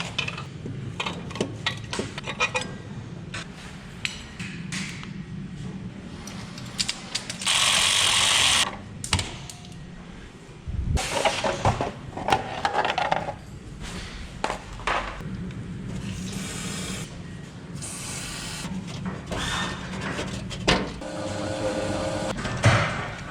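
Workshop tool sounds during an engine teardown: scattered metal clicks and knocks, a steady burst of noise lasting about a second around eight seconds in, and a louder stretch of tool noise around eleven to thirteen seconds.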